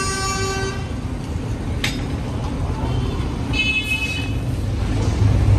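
Road traffic rumble with a vehicle horn sounding at the start and cutting off under a second in. A sharp click comes about two seconds in, and a shorter, higher-pitched horn toot sounds a little before the four-second mark.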